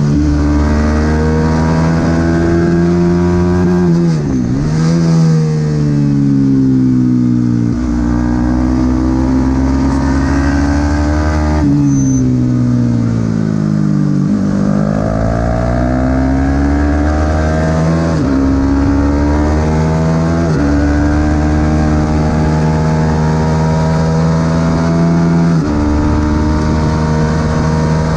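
Supersport 300 racing motorcycle engine at high revs on track, its pitch climbing through the gears with sudden drops at each upshift, and falling away twice under braking before climbing again, with wind noise throughout.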